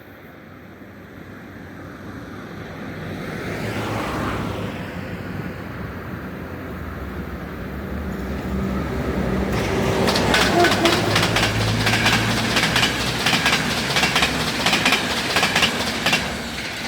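A train approaching and passing close by, growing louder, with a low steady hum and rapid clicking of its wheels over the rail joints through the second half.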